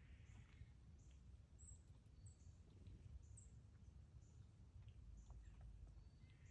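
Near silence outdoors: a faint low rumble, with a few short, high bird chirps about a second and a half to three and a half seconds in.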